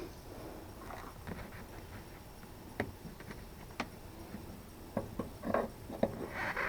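Scattered light clicks, taps and rustles of small parts and tools being handled, with a few sharper clicks in the second half.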